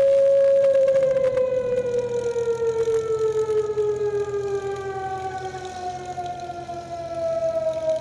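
Air-raid siren wailing, then winding down: its steady note starts falling about a second in. A second, higher siren tone comes in and falls alongside it.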